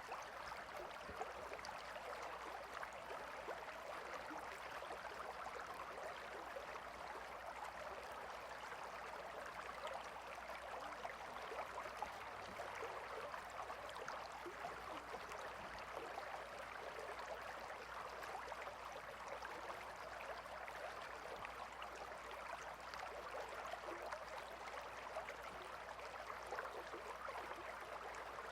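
Shallow river flowing steadily, a soft even rush of water with fine splashing and gurgling detail.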